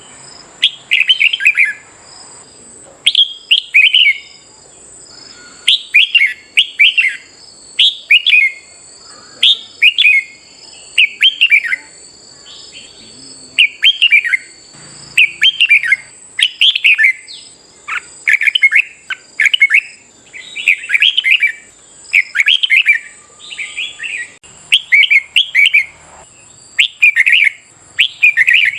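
Red-whiskered bulbul song: short, loud warbled phrases that sweep downward, repeated about once a second, over a thin steady high tone.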